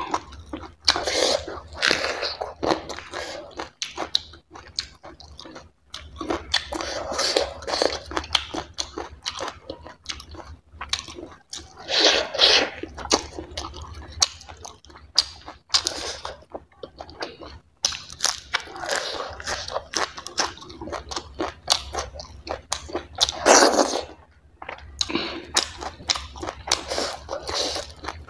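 Close-up eating sounds of a person chewing and biting: crisp crunches of raw green chilli and wet chewing of chicken curry pieces, in irregular bites with a few louder crunches.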